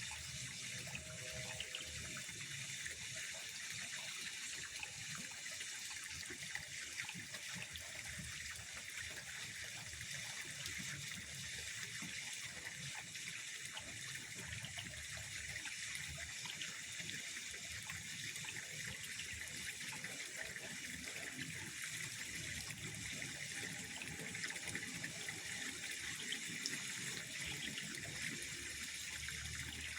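Steady trickling of water: an even hiss with no breaks.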